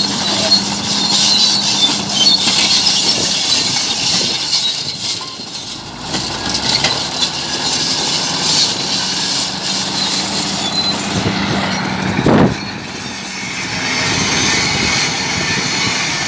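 Bulldozer working: its diesel engine runs steadily under a dense din of metallic clanking and scraping, with one brief louder rising sound about twelve seconds in.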